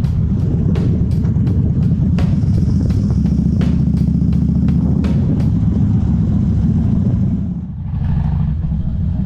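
Harley-Davidson Twin Cam 88 V-twin engine running steadily while the motorcycle is ridden. The level dips briefly about three-quarters of the way in and then picks up again.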